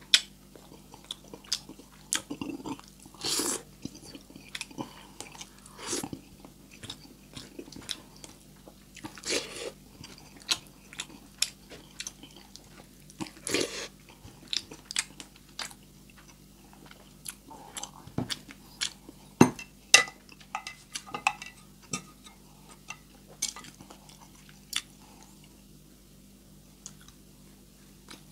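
Close-up chewing and lip smacking as sardines in tomato sauce and rice are eaten by hand. Many short wet clicks, with now and then a longer smacking burst.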